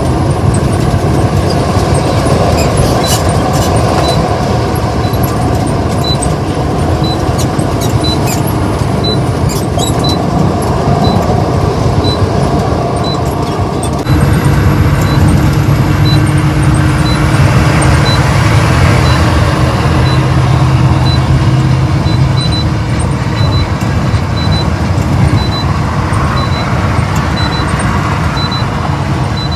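Steady road noise of a vehicle driving at speed: tyre and engine rumble with wind noise. The noise shifts abruptly about halfway through and is slightly louder afterwards.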